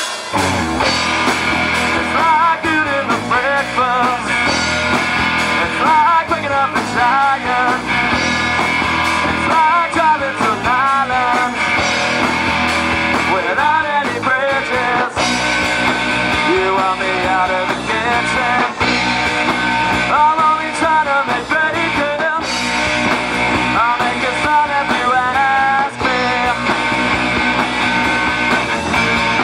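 Live rock band playing a song on electric guitars and drums.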